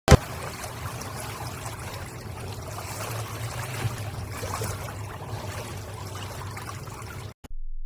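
Sea water splashing and rushing, with a steady low rumble underneath. It starts abruptly and cuts off suddenly near the end.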